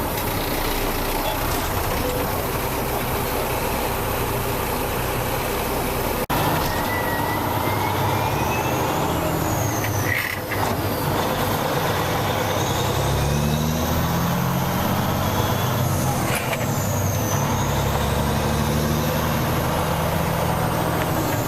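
Caterpillar 3406 inline-six diesel of a 1989 Freightliner day cab running on the road, heard from inside the cab. Its pitch stays steady at first, then climbs and drops several times in the second half as the truck pulls through the gears.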